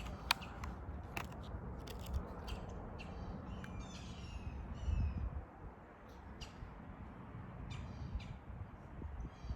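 Birds calling outdoors, with a short run of harsh crow-like calls about four seconds in. Light clicks and taps are scattered throughout, over a steady low rumble.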